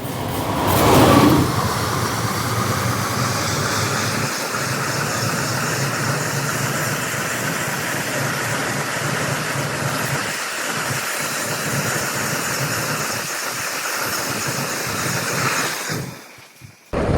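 Train running past on the rails, a steady loud rushing noise. A brief falling tone comes about a second in, and the noise cuts off about a second before the end.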